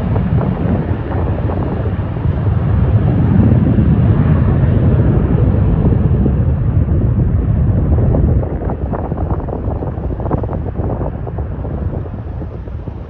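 Jet aircraft on its takeoff run, a loud rumbling roar with wind buffeting the microphone. The roar peaks mid-way, drops off sharply about eight seconds in, then fades as the aircraft climbs away.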